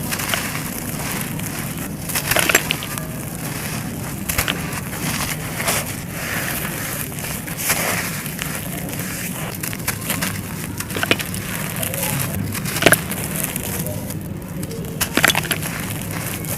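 Dry, crumbly material being crushed, with a continuous crunching hiss broken by irregular sharp cracks and snaps. The loudest crack comes just before the end.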